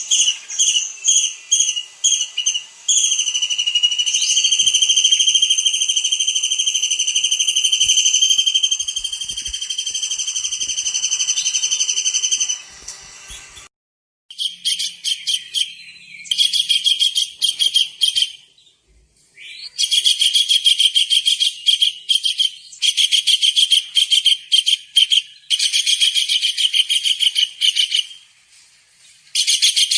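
Tengkek udang (a small kingfisher) calling: a few short, high whistled notes, then one long, high, steady trill of about ten seconds. After a brief break comes a series of fast, high rattling trills, each lasting one to two seconds.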